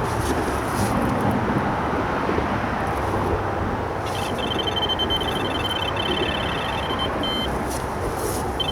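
Electronic carp bite alarm sounding a run: a fast stream of high beeps starting about four seconds in, with short breaks, as a fish takes line. Underneath, steady road traffic noise.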